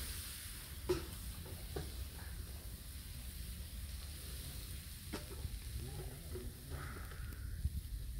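Food frying in a pan with a light sizzle over a low rumble, with a few sharp clicks of a utensil against the pan.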